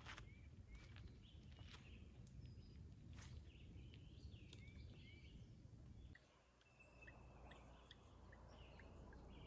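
Faint outdoor ambience: a small bird calling with short, repeated chirps over a low rumble, with a few soft clicks.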